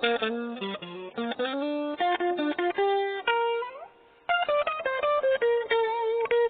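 Cheap maple-body electric guitar playing a single-note melody with string bends, pausing briefly about four seconds in.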